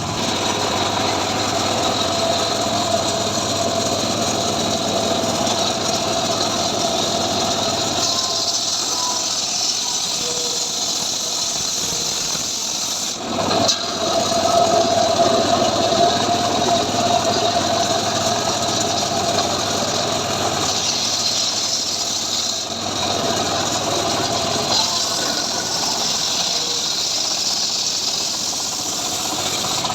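Engine-driven homemade sawmill rig running steadily with a persistent hum. It grows louder for several seconds about halfway through.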